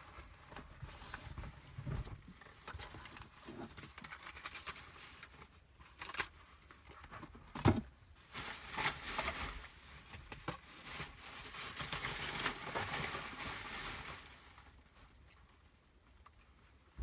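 Rustling and crinkling of things being handled, with scattered small knocks and one louder thump about eight seconds in.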